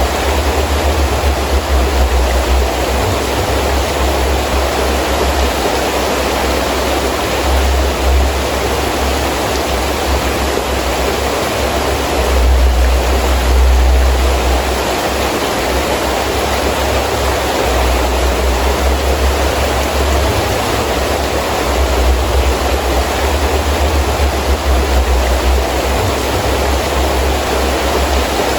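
Heavy rain falling steadily in a windy rainstorm, with gusts of wind adding a deep rumble that swells and fades, strongest about halfway through.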